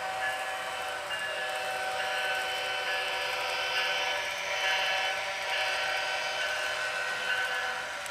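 Model diesel locomotive's sound-decoder bell ringing continuously through its small onboard speaker, with a steady engine and running noise underneath.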